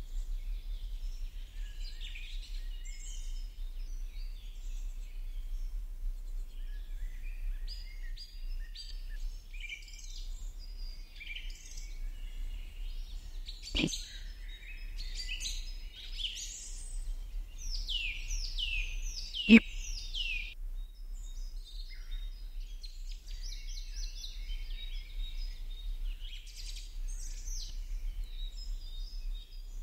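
Small birds chirping and twittering throughout, a dense run of quick chirps with a burst of louder sweeping calls a little past the middle, over a steady low hum. Two sharp clicks stand out, one about halfway through and a louder one a few seconds later.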